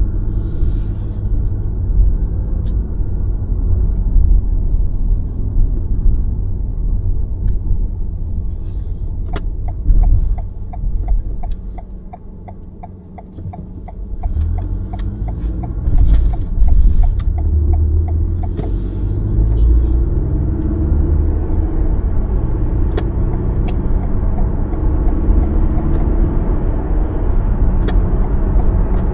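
Car driving on city roads: steady engine and road rumble that drops off as the car slows about twelve seconds in, then builds again with a rising engine pitch as it pulls away. A quick regular ticking runs through the middle of the stretch.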